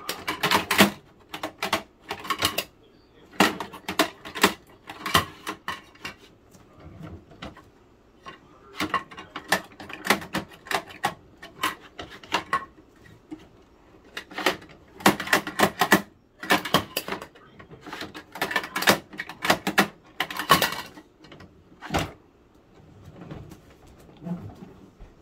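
Plastic toy garbage truck and toy bins clattering as they are handled, in quick clusters of sharp clicks and rattles separated by short pauses.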